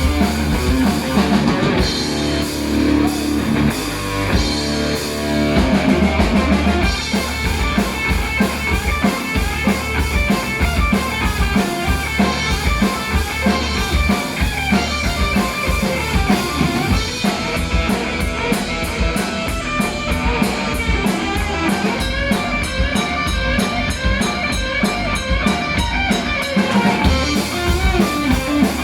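Live heavy metal band playing with no vocals: distorted electric guitars over a drum kit, the drums settling into a fast, even beat about halfway through.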